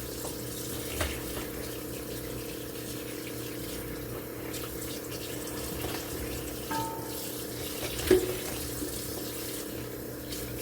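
Tap water running steadily into a kitchen sink, with a low steady hum under it. A couple of knocks stand out, the loudest about eight seconds in.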